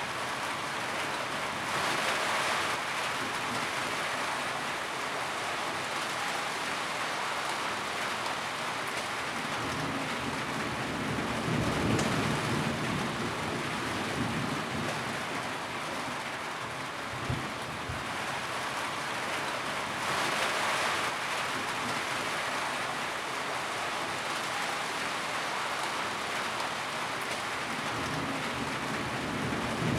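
Steady heavy rain falling on a tin roof, a continuous hiss that swells and eases a few times, with a couple of brief low thumps.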